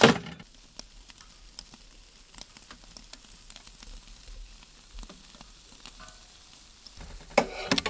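Faint crackling and sizzling of a wood fire with a pizza baking in it, with scattered small pops. Louder clattering comes right at the start and again near the end.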